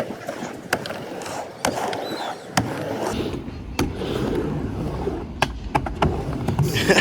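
Wheels rolling over skatepark concrete, broken by a string of sharp clacks and knocks as tricks are landed and ridden out. A low wind rumble on the microphone comes in about halfway through.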